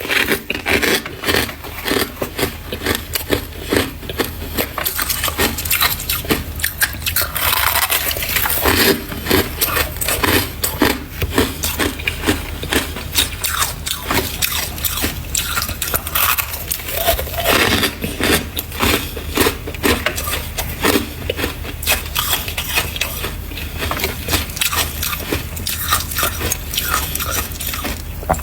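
Freezer frost being bitten and chewed, a steady run of crisp crunching and crackling with a low hum underneath.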